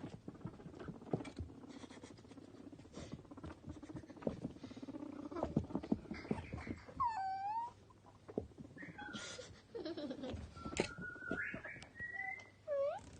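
Guinea pigs squeaking: several short whistling squeaks that bend up and down in the second half. Underneath are scuffling and small clicks as they move about.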